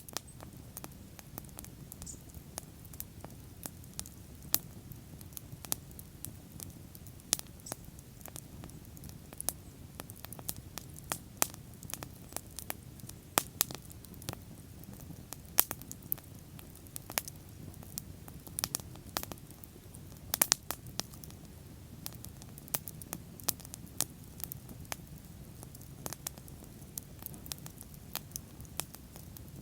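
Wood fire burning steadily, with irregular sharp pops and crackles several times a second over a low rumble of the flames.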